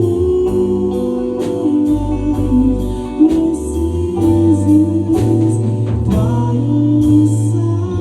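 A band playing a song, with singing over sustained chords, a bass line and drum strokes.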